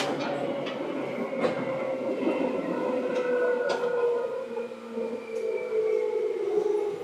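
Seibu 2000 series electric train's motor and gear whine, slowly falling in pitch as the train slows, with a few sharp clicks from the wheels and track.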